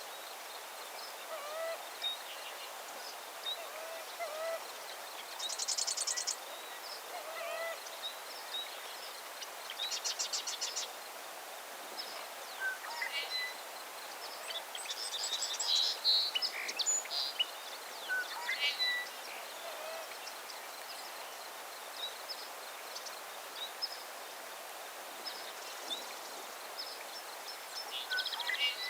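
Several wild birds calling and singing over a steady background hiss: scattered short chirps and whistles, two rapid buzzy trills about six and ten seconds in, and a louder burst of song around the middle.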